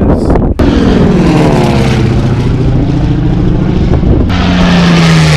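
Piston-engine warbird flying past, its engine note sliding down in pitch as it goes by and then levelling off. About four seconds in, a louder rush of engine and air noise comes in.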